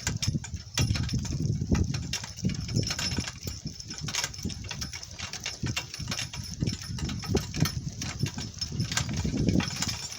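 Donkey cart rattling and jolting over rough ground: a run of irregular knocks and clatter over an uneven low rumble.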